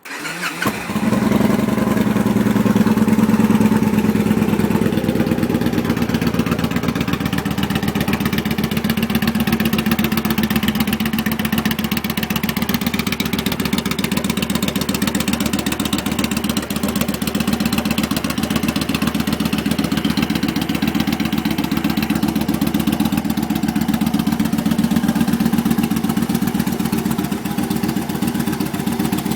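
Victory Jackpot V-twin engine breathing through a Hard Krome 2-into-1 SideBurner exhaust. It starts abruptly at the opening, runs a little higher for the first few seconds, then settles into a steady idle.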